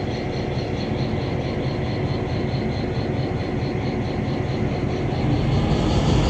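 Steady rumble of a slow-moving train heard from aboard: the EMD GP7 diesel locomotive running as it pulls the cars along the rails, growing louder near the end.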